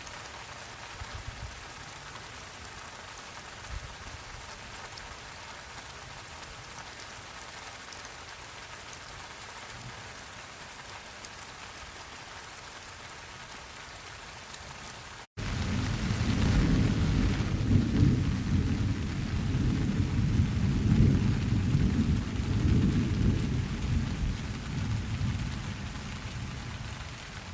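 Steady rain falling. About halfway through, the sound drops out for an instant, and then a long, loud, low rumble of thunder rolls over the rain and fades near the end.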